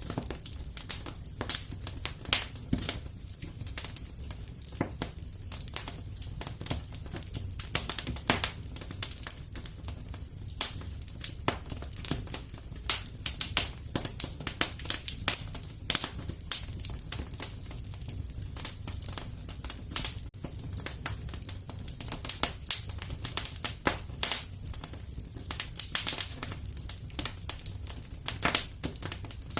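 Fire crackling in a fireplace: constant irregular pops and snaps over a steady low rumble.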